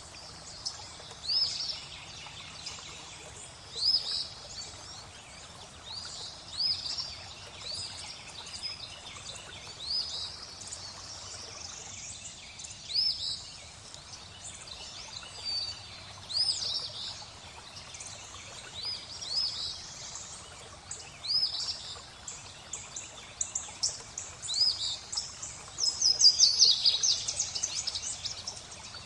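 Songbirds chirping, short high calls about every second or two, over a steady wash of flowing water. Near the end a bird breaks into a rapid, louder run of chirps.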